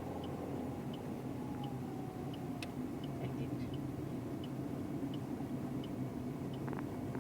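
Car engine and road noise heard inside the cabin, a steady low rumble. Over it the turn-signal indicator ticks evenly, about one and a half ticks a second, as the car nears a roundabout.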